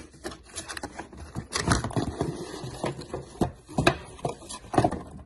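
Packaging being handled during an unboxing: irregular rustling and clicks as the parts are taken out.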